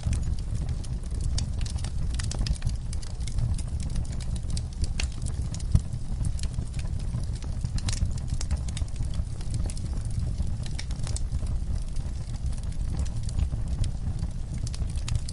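Wood fire burning in a fireplace: a steady low rumble of flames with frequent small crackles and pops, one sharper pop a little before the middle.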